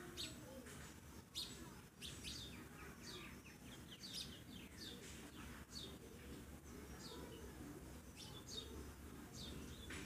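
Faint, repeated chirps of small birds, each a quick high note sweeping downward, over a low steady background hum.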